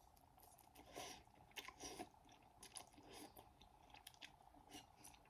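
Faint, irregular clicks and crackles, several a second, with no voice.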